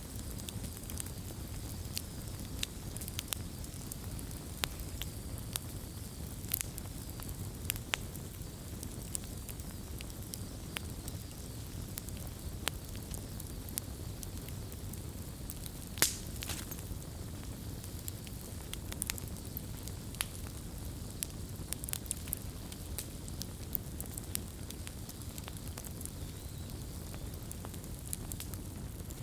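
Wood fire burning: a steady low rush of flame with frequent sharp crackles and pops, one louder pop about halfway through.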